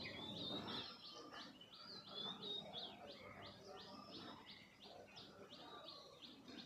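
Birds chirping: a long run of short, high, repeated notes at about three a second, faint, over a low background hum.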